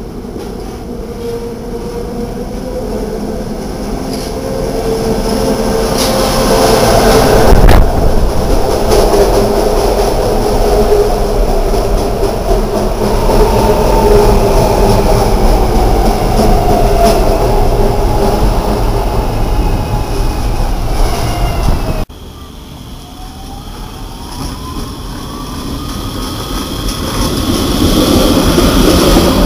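A SEPTA rapid-transit train draws near, getting louder over several seconds, and passes close by with wheel noise and a motor whine. About three-quarters through it cuts off suddenly, and a PCC streetcar passes close, its motor whine rising in pitch as it grows louder.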